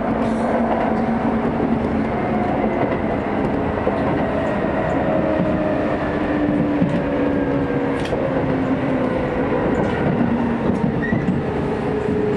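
Hokuso Railway 9000-series commuter train running along the track, heard from inside the passenger car: a steady rumble with a faint hum from the running gear that drifts slowly lower in pitch, and a sharp click about eight seconds in.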